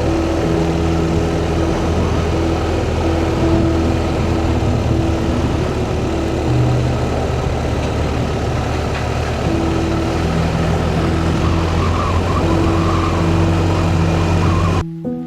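A motorcycle running at road speed, its engine hum blending with steady wind noise. It cuts off abruptly near the end.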